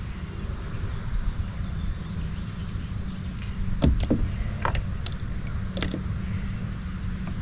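Steady low rumble with a handful of sharp clicks and knocks between about four and six seconds in.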